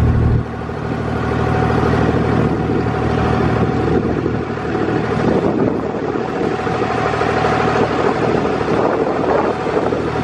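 Dubai Creek abra water taxi's engine running steadily, with water and wind noise; the low hum drops off suddenly about half a second in.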